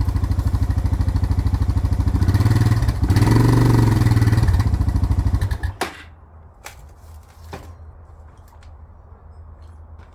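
Suzuki DR650's single-cylinder four-stroke engine running with a steady pulse, then revved up and back down. It cuts off suddenly about six seconds in, followed by a few faint clicks.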